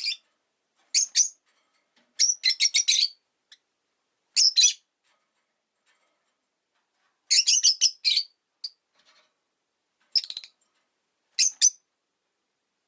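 Rosy-faced lovebird giving short, shrill chirps in about eight irregular bursts, some single and some rapid runs of several notes, with gaps of silence between.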